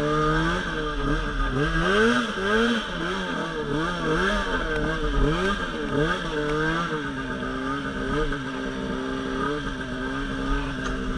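Polaris RMK Pro 800 snowmobile's two-stroke twin engine revving up and down over and over as the throttle is worked, settling to a steadier pitch in the last few seconds.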